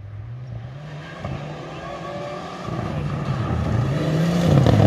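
Rally car approaching at speed, its engine revving up and falling back repeatedly through gear changes and growing steadily louder.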